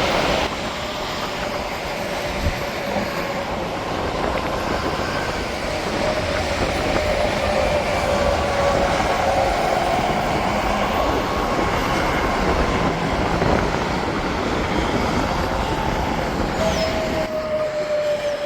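Interstate traffic with tractor-trailers passing: a steady roar of tyres and engines, with whining tones that slowly fall in pitch as the trucks go by.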